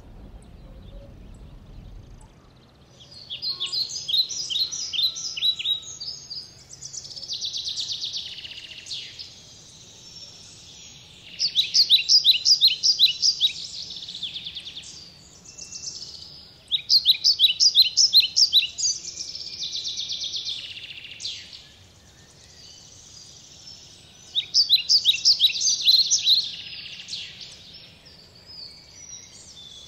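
A songbird singing in repeated bouts of rapid, high, evenly spaced notes, each bout two to three seconds long and several seconds apart, with softer chattering in between.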